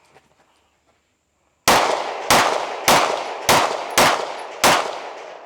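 Six pistol shots fired in quick succession, about 0.6 s apart, starting nearly two seconds in, as a timed shooting string. Each shot rings out and fades.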